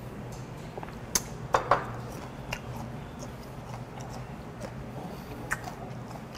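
Chewing on crispy fried shrimp, with a few sharp crunches or clicks, the loudest about a second and a half in and one more near the end, over a low steady hum.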